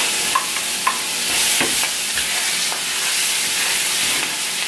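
Garlic, ginger and scallions sizzling steadily in hot oil and curry powder in a frying pan. A spoon stirring them clicks against the pan several times in the first few seconds.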